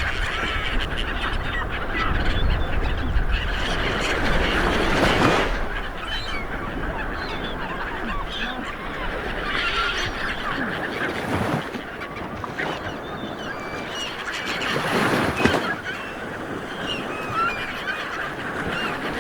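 Sea waves washing onto a shore, swelling a little louder about four seconds in and again near fifteen seconds, with birds calling repeatedly over the surf.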